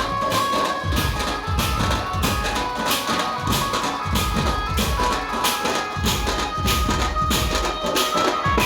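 A pad band playing: fast, dense drumming with bright jingling strikes under a held melody line.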